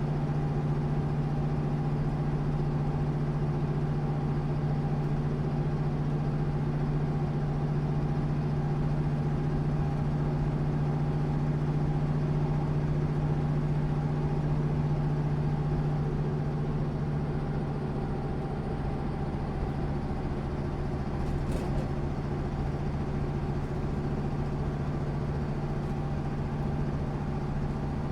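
MAN SÜ 272 bus's diesel engine running steadily at a constant pitch, with a single brief click about three-quarters of the way through.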